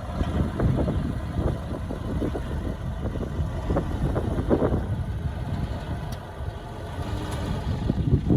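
Diesel engine of heavy earthmoving machinery running at low revs, a steady low rumble that eases off briefly and picks up again near the end.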